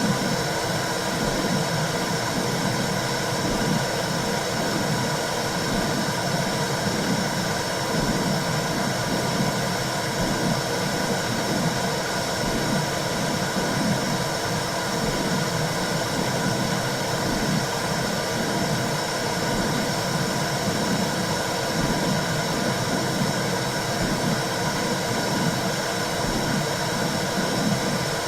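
Womb sound for soothing a baby: a steady whooshing white noise with a low rhythmic pulse about once a second, like a mother's heartbeat heard from inside the womb.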